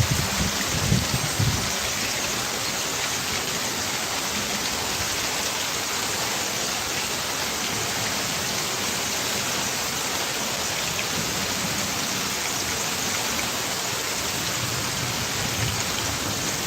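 Steady heavy rain, an even hiss, with a low rumble dying away in the first second or two.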